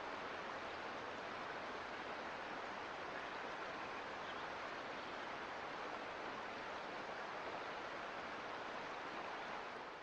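Mountain creek flowing, a steady rushing of water that begins to fade out near the end.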